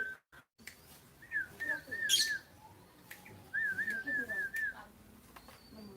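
Two runs of quick, wavering high whistled notes, four or five in each run, the second starting about three and a half seconds in. A brief rustling burst comes in the middle of the first run.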